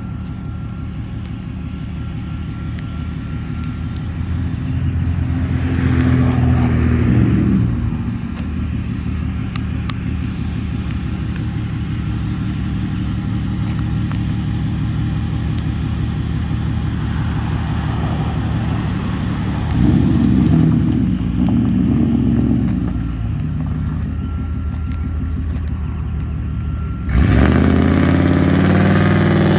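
A 2003 Dodge Durango's engine running through a 3-inch single exhaust. It idles steadily and is revved up and back down twice, the second time in two quick blips. Near the end the exhaust note suddenly gets louder and fuller.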